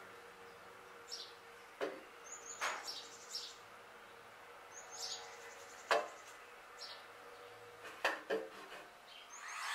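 Sparse short bird chirps at irregular intervals over a faint steady hum.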